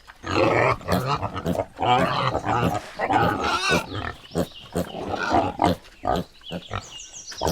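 Piglet calling: a quick, irregular run of short grunts and squeals.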